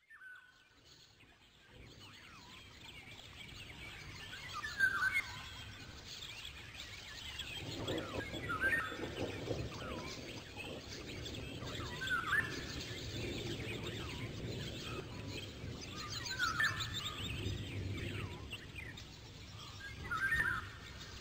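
Songbirds singing, one repeating a short chirping phrase about every four seconds, with a low outdoor background noise underneath.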